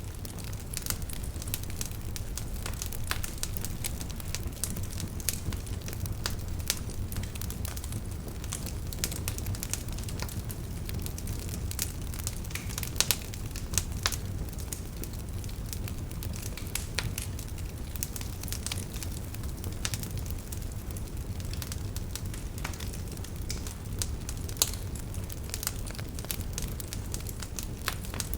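Wood fire burning in a fireplace, with a steady low rumble under irregular sharp crackles and pops. A few louder pops stand out, about halfway through and again near the end.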